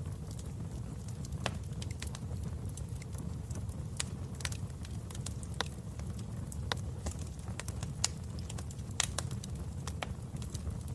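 Wood fire burning in a fireplace: a steady low rumble of flame with irregular sharp crackles and pops of burning logs.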